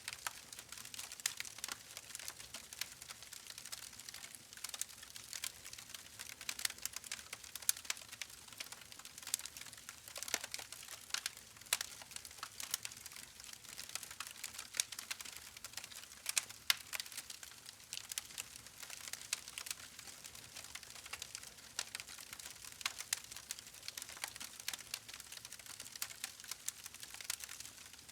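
Campfire crackling: a dense, irregular run of small pops and snaps over a soft hiss.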